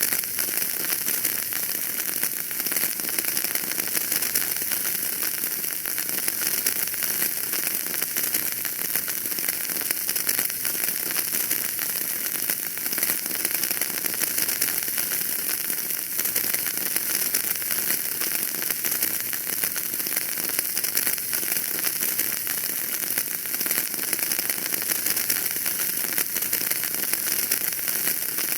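Wood fire in a fireplace crackling steadily, a dense stream of small pops and snaps over a hiss.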